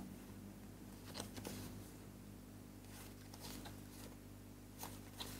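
Faint scattered clicks and rustles of a tarot deck being fanned through in the hand, a few separate ticks over a low steady hum.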